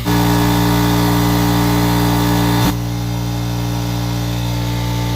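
Air compressor running with a steady, loud hum. A hiss over it drops away a little under three seconds in.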